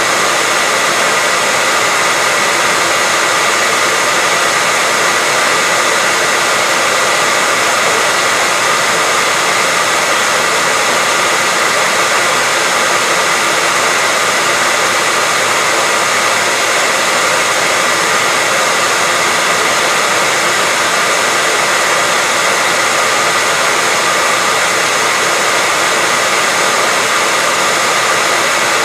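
Hair dryer running steadily: a constant airy rush with a faint steady whine from the motor.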